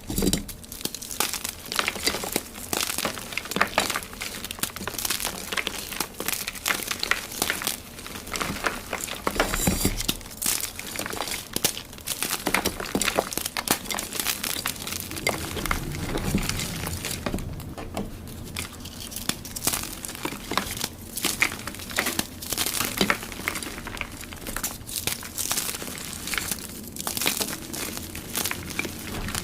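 Dyed gym chalk blocks being crushed, a dense run of crisp crunching and crumbling crackles.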